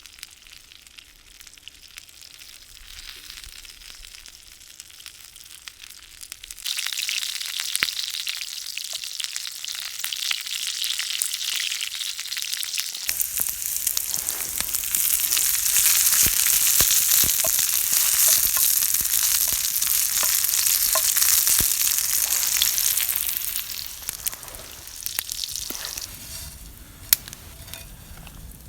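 Food frying in a hot pan: a sizzle starts suddenly about seven seconds in, grows louder a few seconds later and dies down near the end, with a few sharp utensil clicks.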